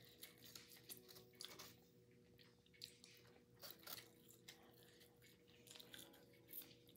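Faint, close chewing of barbecue-sauced fried chicken: soft, irregular wet clicks and smacks of the mouth as the meat is eaten.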